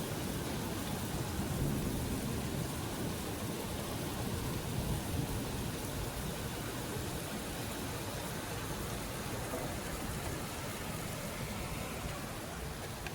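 Steady rain pouring in a thunderstorm, an even hiss, with a low rumble of thunder in the first few seconds that eases off later.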